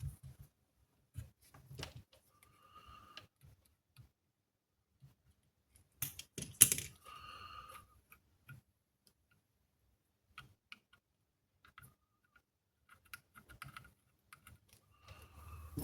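Scattered small clicks and taps of hand tools and parts being handled on a workbench during board repair, with a louder clatter about six seconds in.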